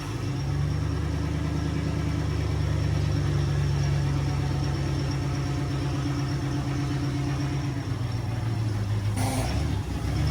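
A car engine idling steadily. A short, sharp noise breaks in near the end.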